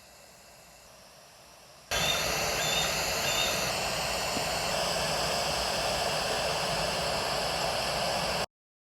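Steady rushing noise like wind on an outdoor microphone, starting about two seconds in and cutting off suddenly near the end, with a few faint high chirps of a small bird early in it.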